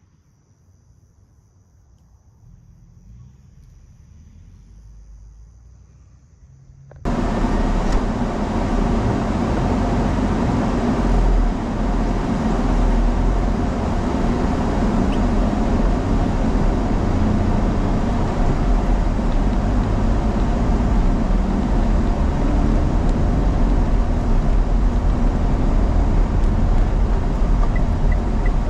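Steady, loud rumbling noise of a moving road vehicle, starting suddenly about seven seconds in after a faint, quiet stretch.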